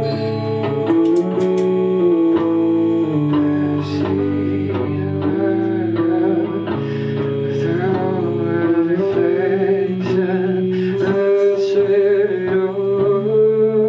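Live band playing a loud, steady passage with guitar to the fore.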